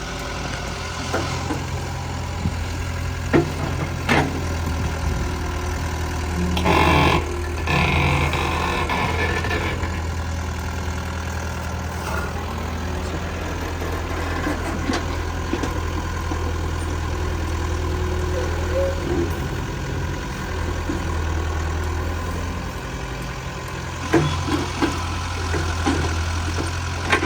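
A heavy machine's engine, such as an excavator's, running steadily with a low hum. It is broken by a few sharp knocks and clanks, and by a louder noisy stretch about seven seconds in.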